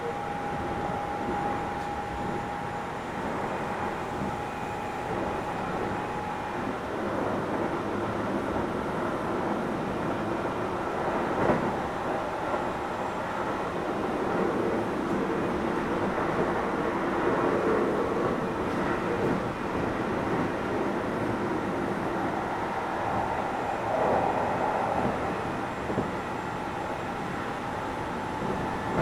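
Keio 7000 series electric train running, heard from inside the car: a steady rumble of wheels on rail. A steady whine fades out after a few seconds and comes back near the end, and there is a single knock about a third of the way in.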